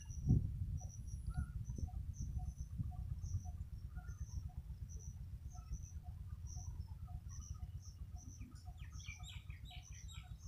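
Birds calling, one short call repeating at an even pace about twice a second, over a low steady rumble. A flurry of higher chirps comes near the end.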